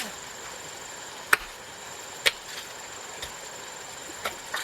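Sharp knocks, like a tool striking something hard, about a second apart, two loud ones followed by fainter ones, over a steady high-pitched insect drone.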